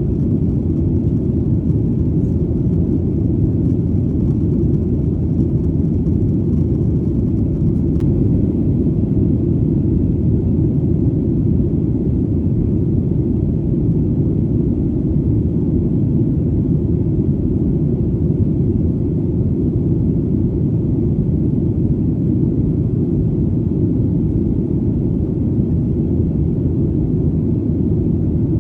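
Airplane in flight: a steady, deep rumbling drone that holds the same level throughout, with its sound almost all in the low range.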